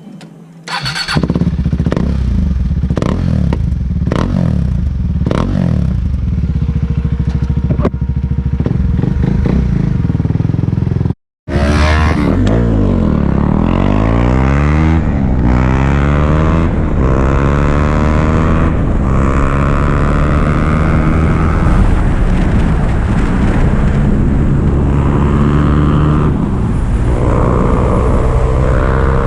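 Sport motorcycle engine running hard on a canyon ride, its pitch climbing and dropping again and again as the throttle is worked through gears and corners, over steady wind noise. The sound cuts out briefly about eleven seconds in and comes straight back.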